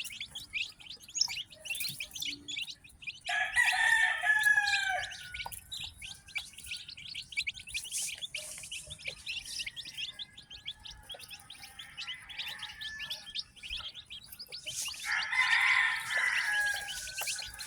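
Many newly hatched chicks peeping continuously in short, high chirps. A rooster crows twice over them, about three seconds in and again near the end.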